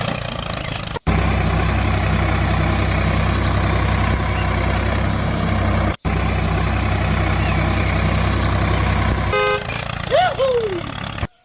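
A vehicle engine running steadily with a low drone, which drops out abruptly twice. Near the end a short horn toot sounds.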